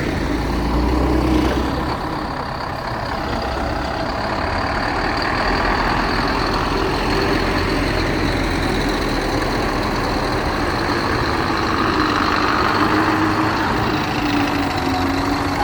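Heavy diesel lorry engines running steadily as the lorries pass slowly.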